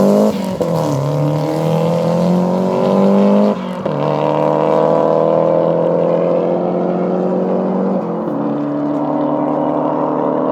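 Car engine at full throttle accelerating through the gears. Its pitch climbs in each gear and drops at three upshifts: just after the start, about three and a half seconds in, and about eight seconds in.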